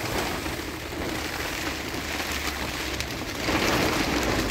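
Heavy rain falling on a tent's fabric, a steady hiss that grows louder about three and a half seconds in.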